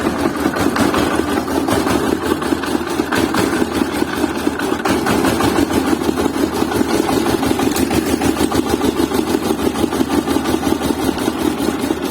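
Small DC gear motors of a homemade remote-control tractor running steadily, with a fast, even pulsing.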